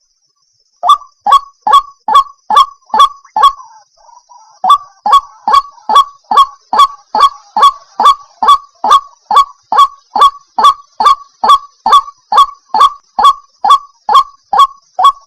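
White-breasted waterhen (ruak-ruak) calling: a loud, steady series of sharp repeated notes, about two to three a second, starting about a second in with a short break about four seconds in.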